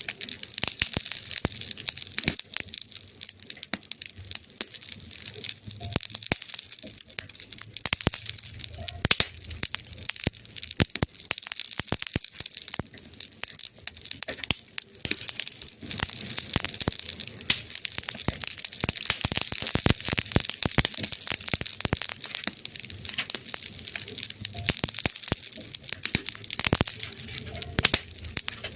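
Wood fire crackling steadily, with dense rapid snaps and a few louder pops.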